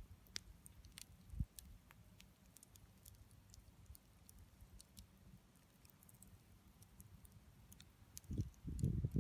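Wood campfire crackling softly, with scattered sharp pops and snaps at irregular intervals. Near the end a low rumbling noise comes in.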